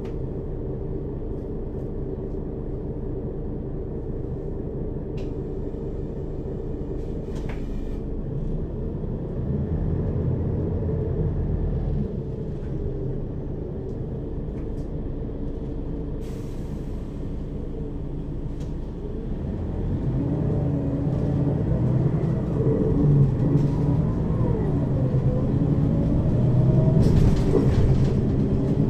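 Mercedes-Benz Citaro city bus heard from inside above the second axle: the diesel engine and ZF Ecomat automatic transmission running under way, then growing louder from about two-thirds in with shifting pitch as the bus pulls harder. Two short hisses of air, about halfway and near the end.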